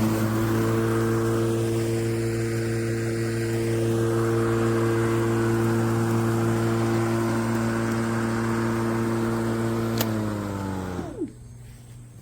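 Sun Joe 24V cordless lawn mower's electric motor and blade running at a steady pitch. About ten seconds in there is a click as it is switched off, and the pitch falls as it winds down to a stop about a second later.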